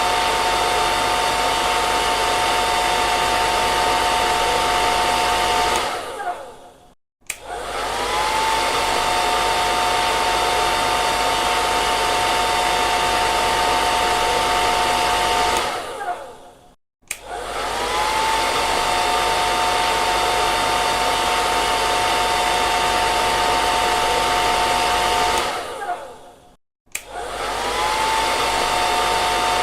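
Hair dryer blowing, a steady rush of air with a motor whine. Three times it dies away to silence for about a second, then starts again, the whine rising as the motor spins back up.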